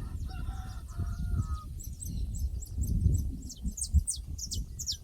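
Pasture ambience: a short broken bird call near the start, then a quick run of high, falling chirps from small birds, over a steady low rumble.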